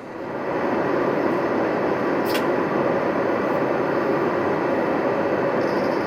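Steady cabin noise inside an Airbus A321neo on its approach, the even rush of airflow and engines, fading up over the first second. A faint click about two seconds in.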